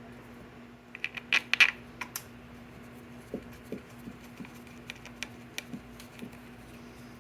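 A quick cluster of sharp clicks and taps about a second in, the loudest sounds here, then scattered lighter clicks: small parts and hand tools being handled during scooter wiring work. A steady low hum runs underneath.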